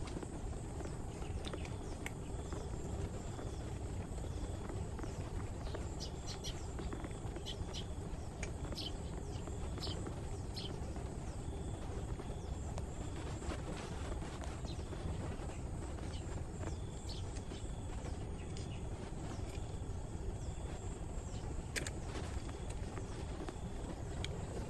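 Outdoor background noise: a steady low rumble with scattered short, high chirps and clicks throughout.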